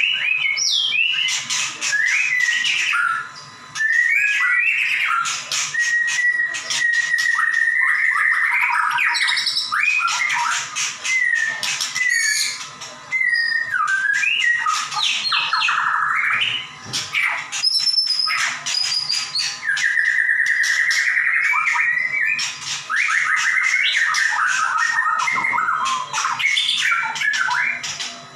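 White-rumped shama (murai batu) in full song: a continuous stream of loud, varied whistles, sliding notes and rapid trills and clicks, with a few brief pauses.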